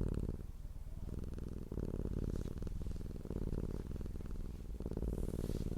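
Domestic cat purring close up: a low, fast-pulsing hum that swells and eases in turns about a second long as the cat breathes in and out. Purring of a content, relaxed cat.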